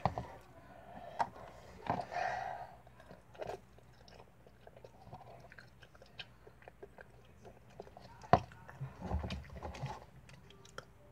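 A child chewing a mouthful of Buldak spicy instant stir-fried noodles, with scattered small clicks and a few louder knocks.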